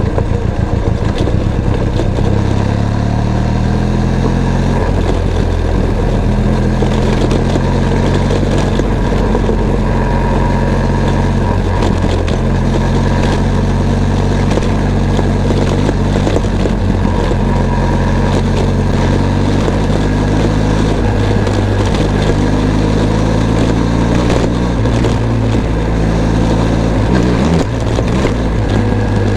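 Benelli TRK 502 X motorcycle's parallel-twin engine running under way, its note climbing over the first few seconds and then stepping up and down several times with throttle and gear changes.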